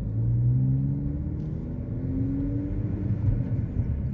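Road traffic: car engines running with a low, steady rumble, one engine rising in pitch about a second and a half in as a vehicle accelerates.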